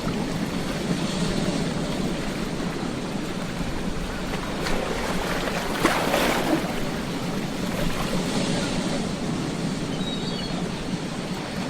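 Ocean waves washing onto a beach in a steady rush of surf, with one wave breaking louder about halfway through.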